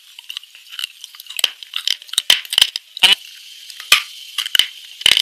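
Close-miked crunching of hard, brittle white chunks being bitten and chewed: a string of sharp, irregular cracks and snaps, loudest about three seconds in and again near the end.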